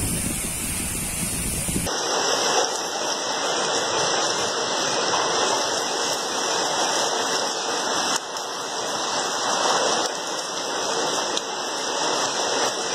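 Heavy rain falling, with wind buffeting the microphone for the first two seconds. After an abrupt change, there is a steady hiss of rain and muddy runoff water rushing over the ground and into a grated drain.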